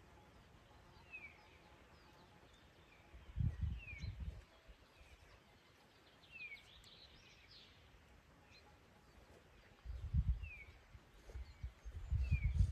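A bird repeating a short, high, falling chirp about every two to three seconds against outdoor background noise. Three bursts of low rumble break in, about three and a half seconds in and twice near the end.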